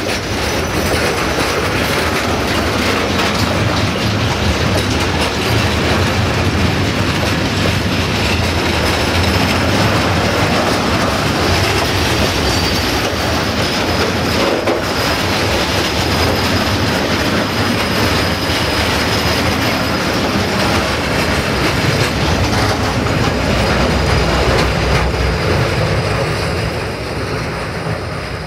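Covered hopper freight wagons rolling past close by: a steady rumble and clatter of steel wheels on the rails with a thin high wheel squeal over it, easing off a little as the last wagon passes near the end.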